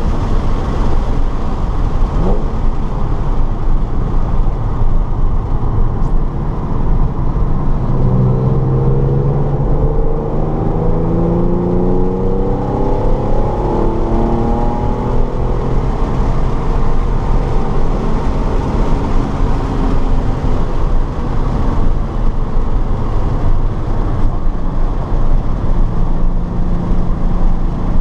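Car running at speed on a race track, with steady loud road and wind noise. About eight seconds in, the engine note climbs for several seconds as the car accelerates, then levels off.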